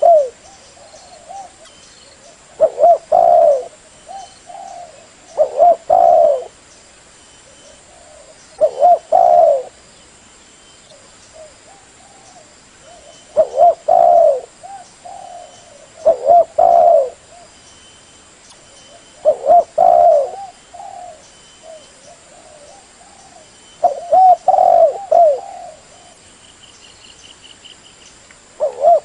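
Spotted dove (terkukur) cooing: a repeated phrase of low, wavering coos about every three seconds, with softer coos between the phrases.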